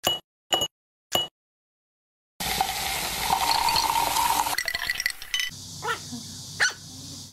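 Three short clinks from a wine glass, about half a second apart, as things are dropped into it. About a second later a steady fizzing hiss begins and runs on, with a drink in the glass over ice.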